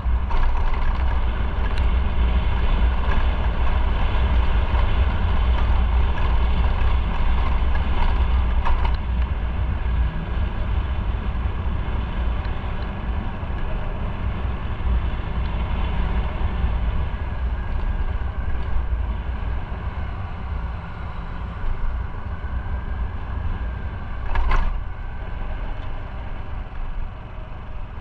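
Motorcycle engine running and wind rushing past while riding, with a heavy low rumble throughout. A short knock sounds near the end.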